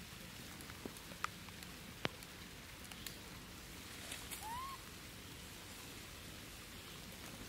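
Faint light rain in the open, with scattered drip-like ticks and one short rising-and-falling chirp about four and a half seconds in.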